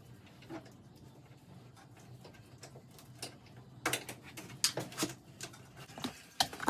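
Rapid clicks and knocks of work on the truck, much denser from about four seconds in, over a low steady hum.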